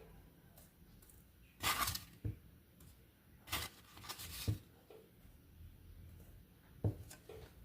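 Kitchen handling sounds of sugar being spooned over beetroot slices in a pan: a few short, gritty scrapes and rustles, and three sharp knocks of the spoon against the pan.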